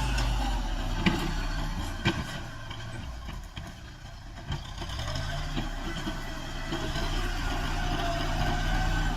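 Farm tractor's diesel engine running steadily. It drops quieter for a few seconds in the middle, then picks up again, with two sharp knocks about a second apart near the start.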